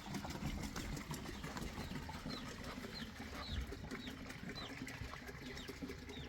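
A small bird calling over and over: short, high chirps that drop in pitch, about two a second, starting about two seconds in, over a low steady rumble.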